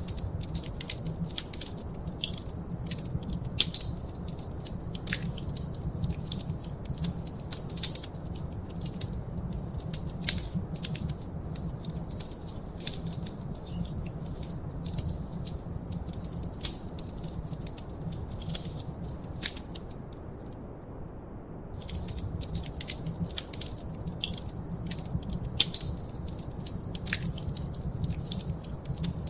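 Wood fire in a fireplace crackling, with many irregular sharp pops and snaps over a steady low rumble of flame. The crackling drops out for about a second roughly two-thirds of the way through, then resumes.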